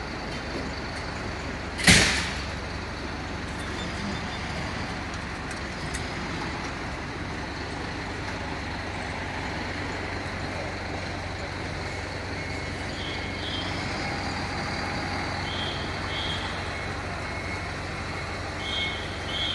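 A diesel fire truck idling steadily, with one short, loud hiss of its air brakes being released about two seconds in.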